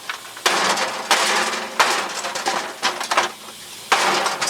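Mini sledge hammer striking the metal body of an old Westinghouse dehumidifier: three hard blows in quick succession, then a fourth after a pause of about two seconds, each with a short clattering tail.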